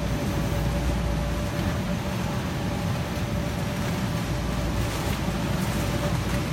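Steady low droning hum with a thin constant tone above it, from the electric blower fan that keeps the inflatable up, mixed with the noise of a busy trade-show hall.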